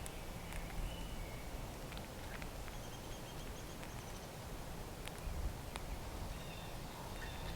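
Faint outdoor bird calls, with a short rapid series of high chirps about three seconds in, over a low rumble of wind, with a few scattered light clicks and taps.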